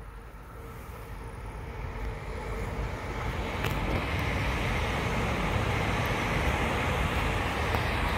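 Two electric trains, a DB class 423 S-Bahn and a Talent 2 (class 442) multiple unit, passing each other. Their rumble swells over the first few seconds and then holds steady as they go by.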